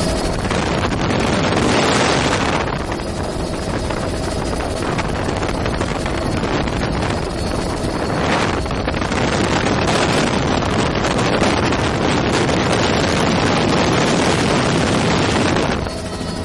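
Heavy wind buffeting the microphone inside a flying helicopter: a loud, rushing noise that swells and eases a few times and largely drowns out the helicopter's engine and rotor.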